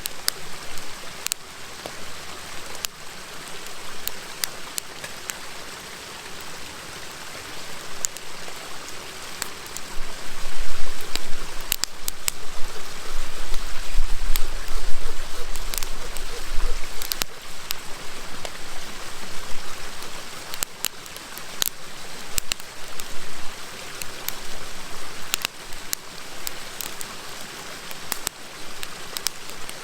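Wood campfire crackling with scattered sharp pops over the steady rush of a river. A low rumble swells in for several seconds about a third of the way through.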